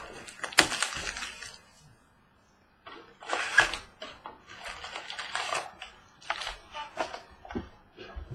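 Football trading card packs being opened by hand: a series of short crackling, rustling bursts of wrappers tearing and cards being handled, with a brief dead drop-out about two seconds in.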